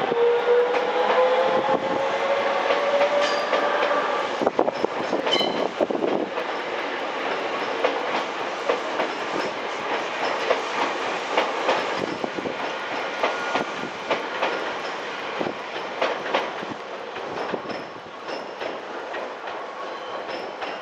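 Electric train running past, with a whine rising in pitch during the first few seconds, then wheels clicking over rail joints amid a steady rumble that slowly fades.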